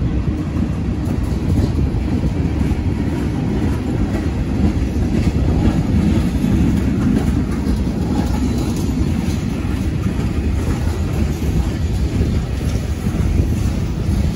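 Freight train of tank cars, covered hoppers and boxcars rolling past at a grade crossing: a steady low rumble of steel wheels on the rails.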